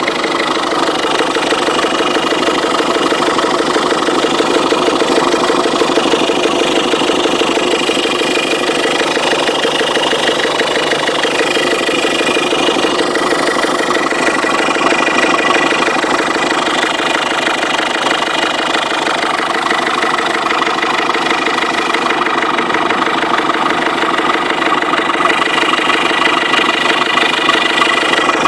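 Ford Fiesta 1.6 TDCi four-cylinder turbodiesel engine idling steadily with a fast, regular knock. The knock is a new fault whose rate rises with engine speed.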